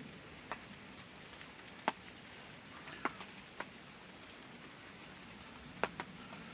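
Steady rainfall with a handful of sharp, irregularly spaced clicks.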